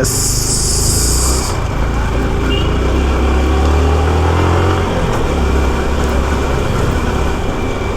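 Yamaha R15 V4 155 cc single-cylinder motorcycle engine running under way with road and wind noise, heard from the rider's position. A loud hiss comes in the first second and a half, and the engine note strengthens about three to five seconds in.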